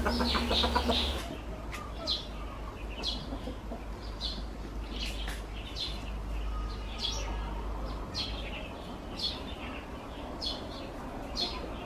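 Small birds chirping, short high sweeping notes about two a second, over a low steady rumble.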